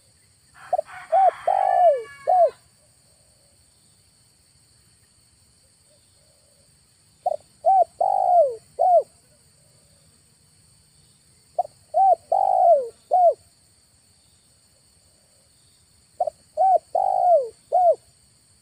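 Spotted dove cooing: four phrases several seconds apart, each a run of about five notes with a longer, burring note in the middle.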